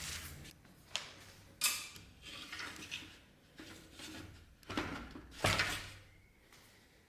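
Objects being handled on a workbench: several sharp knocks and clatters, the loudest about five and a half seconds in, with scraping and rubbing between them.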